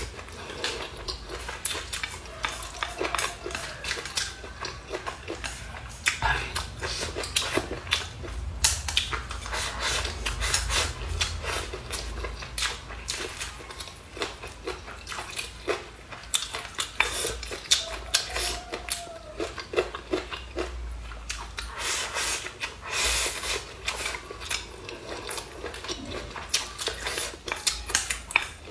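Eating sounds: utensils clicking against bowls and plates in many irregular light clicks, with chewing in between.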